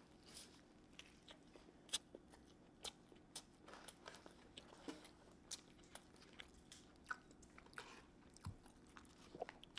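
Faint chewing of a mouthful of chicken pimiento sandwich, with many small, irregular crunches.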